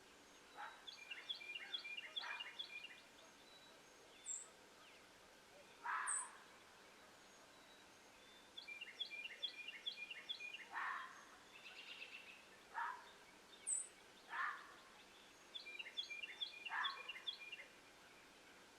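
Unidentified animal calls, faint: three phrases of rapid, evenly spaced chirps, each lasting about a second and a half, mixed with single short calls that drop in pitch and a few very high, brief notes.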